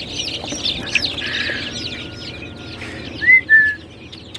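Many chicks peeping in a brooder: a constant chorus of overlapping high, downward-sliding cheeps. About three seconds in, two louder clear whistled notes stand out from the chorus.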